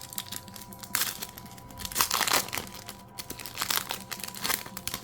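Foil wrapper of a Pokémon mini booster pack crinkling and tearing as it is opened, in a few short crackling bursts, the loudest about two seconds in.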